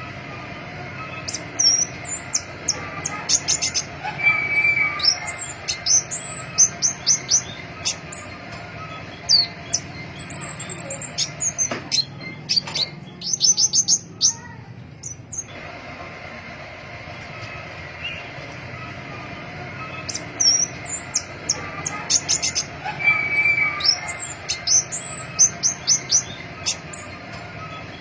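Crimson-breasted flowerpecker (pentis pelangi) calling: clusters of short, very high, thin chirps and quick downward-sliding notes, over a steady low hum.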